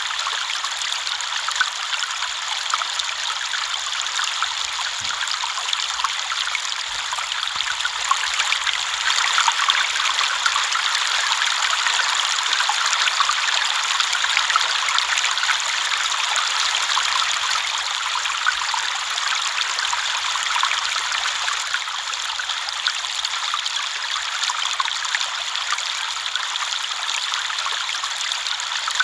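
River water flowing over stones, a steady babbling and trickling rush that swells a little in the middle.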